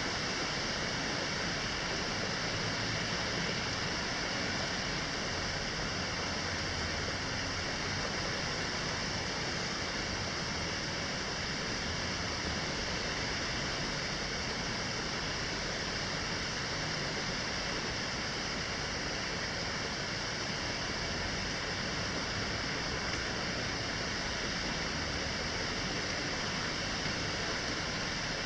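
Steady hiss of summer rain with wind in the leaves, even and unchanging throughout, brightest in its upper range.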